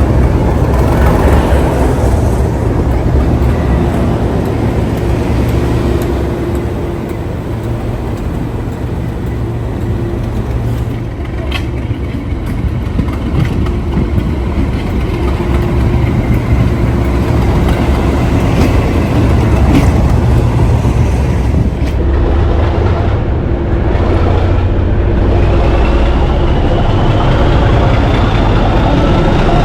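English Electric V12 diesel engine of a Class 37 locomotive running under load, a steady heavy throb with a held drone. A whine rises slowly near the end.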